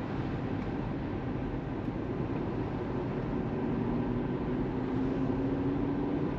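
Tesla Model 3 driving at speed: steady tyre and road noise, with a faint tone that slowly rises in pitch from about halfway through.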